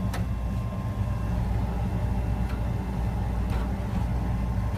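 Nordyne gas furnace running with its burner lit, a steady low rumble with a faint steady whine above it and a few light ticks.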